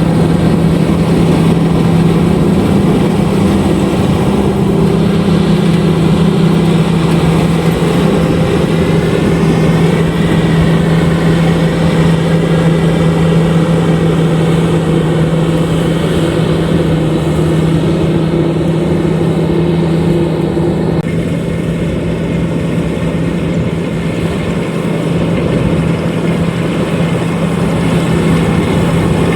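LOVOL RG130EVO combine harvester running steadily while harvesting rice: a loud, constant engine and machinery hum. Part of the higher-pitched machine noise drops away about two-thirds of the way through.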